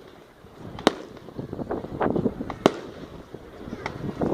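Fireworks going off: two sharp bangs, about a second in and near three seconds, with smaller cracks and a run of crackling between them.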